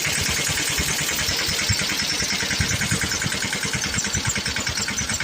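Mahindra 215 mini tractor's single-cylinder diesel engine running with a fast, even chug.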